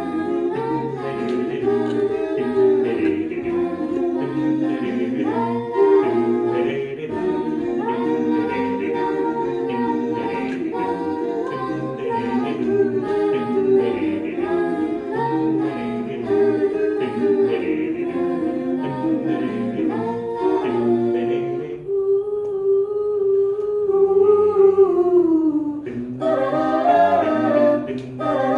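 A cappella group singing in close multi-part harmony with no instruments. About two-thirds of the way through, the texture thins to a few held voices that slide down in pitch, then the full group comes back in.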